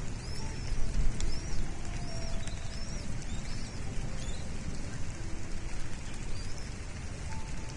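A bird calling in a series of short, high chirps, each rising then falling in pitch, about one a second and thinning out after halfway, over a steady low rumble.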